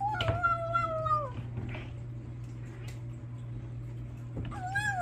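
Bengal kitten making long, drawn-out, moaning meows while eating: one held call of just over a second that drops in pitch at its end, then a second wavering call starting near the end. A steady low hum runs underneath.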